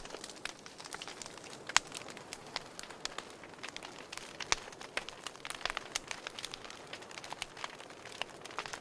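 Wood fire crackling in a fireplace: a soft steady hiss of burning with many sharp, irregular pops and snaps, a louder pop at about two seconds and another in the middle.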